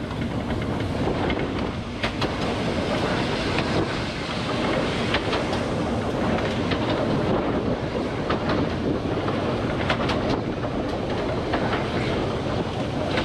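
A train running along light-railway track: a steady rumble of wheels on rail, with sharp clicks from the rail joints every second or two.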